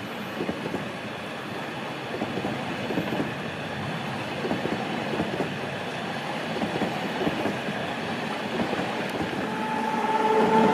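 Rhaetian Railway passenger coaches rolling past on snowy track, a steady rumble of wheels with many small knocks and clacks. Near the end it gets louder and a steady electric whine comes in as the train's electric locomotive draws level.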